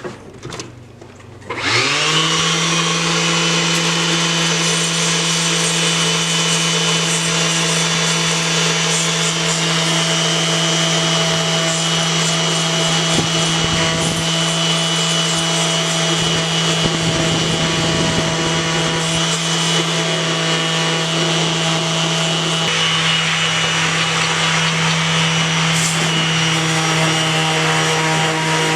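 An electric power sander switched on with a short rising whine about two seconds in, then running steadily as it sands epoxy and 3D-printed PLA plastic, with a rough scraping hiss over the motor's hum. A few clicks come just before it starts, and its pitch shifts slightly late on.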